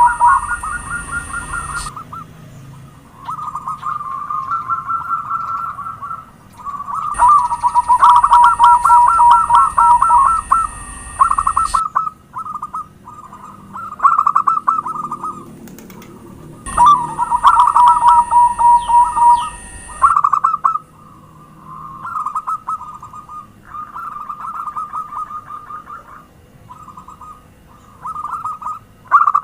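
Zebra doves (perkutut) cooing, in bouts of a few seconds of rapid, trilled coos. Louder bouts alternate with fainter ones.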